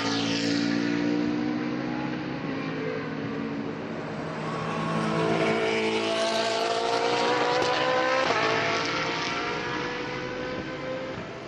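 GT3 race car engines at high revs, passing at speed: one car fades away over the first few seconds, then another approaches with its engine note rising, passes loudest about eight seconds in and fades.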